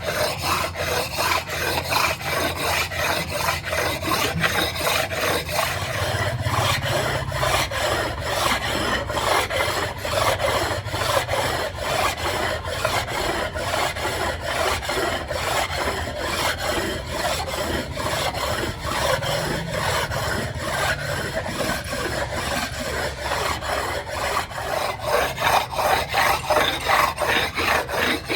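Rhythmic rasping strokes of a file or abrasive worked back and forth by hand on an engine part, about two to three strokes a second over a steady low hum, the strokes growing louder near the end.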